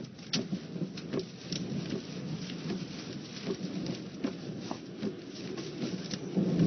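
Heavy rain in a tornado-spawning storm, with many sharp taps of drops striking over a low rumble of wind and storm that grows stronger near the end.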